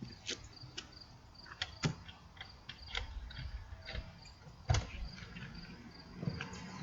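Insects chirping in short repeated high trills, with irregular sharp clicks and taps throughout and one louder knock about two thirds of the way in.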